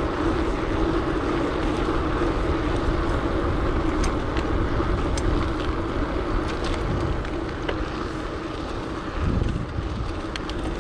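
Wind buffeting the action-camera microphone and the steady rumble of tyres on tarmac as a gravel bike is ridden, with a few light clicks from the drivetrain, whose rear derailleur is not staying in gear after a muddy ride.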